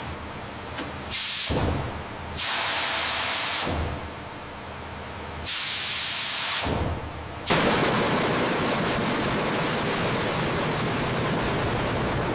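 Loud hissing like a spray or jet of air, coming in bursts: a short one about a second in, longer ones a little later and about halfway through, then a steady hiss from just past halfway.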